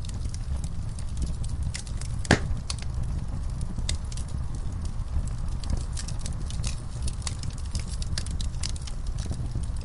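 Wood fire burning in a fireplace: irregular crackling over a steady low rumble of flames, with one loud pop a little over two seconds in.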